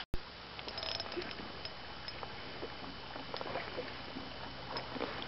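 Steady low background noise on a fishing boat, with scattered faint ticks and taps, broken by a brief dropout at the very start.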